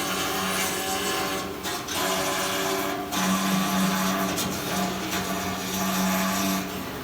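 Flux-cored arc welding on stainless steel: a steady crackling, hissing arc over a low hum. The arc dips briefly about a second and a half in and again at about three seconds.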